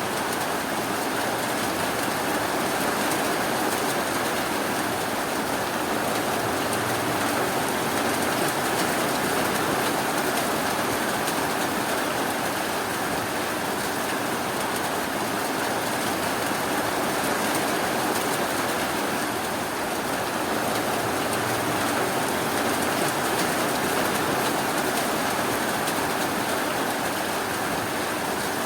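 Steady rainfall, a constant even hiss of rain with no thunder or single drops standing out.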